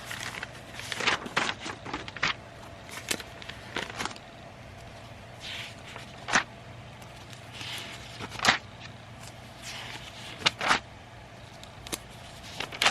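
Paper rustling and notebook pages being turned and handled: irregular crisp rustles and crackles, a few sharper ones standing out, over a faint steady low hum.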